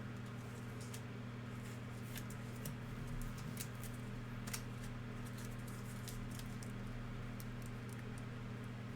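Basketball trading cards being handled and flipped through, with scattered small ticks and slides of card against card, over a steady low electrical hum.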